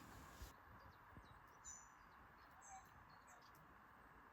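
Faint short, high bird chirps, a few of them about a second apart, over near silence, with a small knock near the start.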